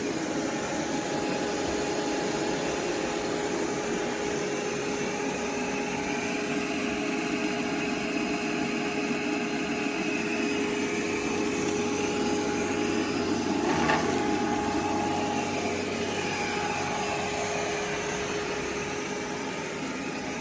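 ECOVACS Deebot T50 Omni robot vacuum running, its suction motor giving a steady whirring noise with a held whine on top. A short knock sounds about two-thirds of the way through.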